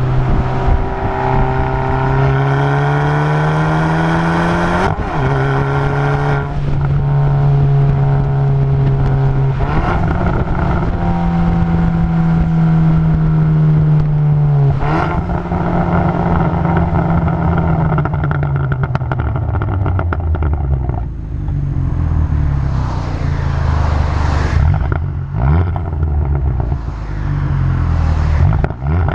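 Muffler-deleted exhaust of a 2020 Hyundai N Line car. The engine note climbs and then drops sharply about five seconds in and again about halfway through, like gear changes, then settles into a lower, uneven drone.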